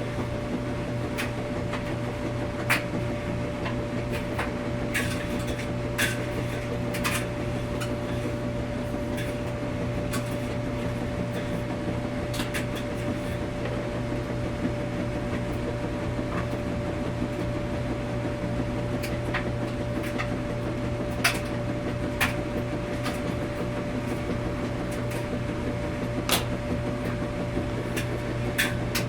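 Laundromat washing machine running: a steady machine hum with scattered light clicks and knocks every few seconds.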